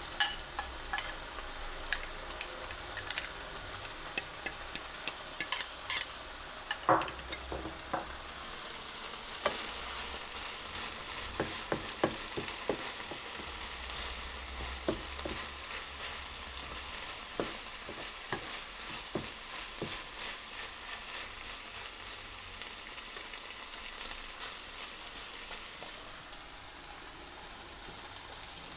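Fajita filling sizzling steadily in a hot pan while being stirred, a utensil clicking and scraping against the pan, the clicks busiest in roughly the first eight seconds and more scattered after.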